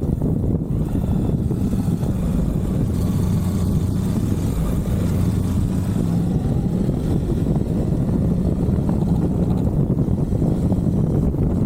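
Suzuki V-Strom 1050XT's V-twin engine running steadily while riding, a constant low drone without gear changes or sharp revving.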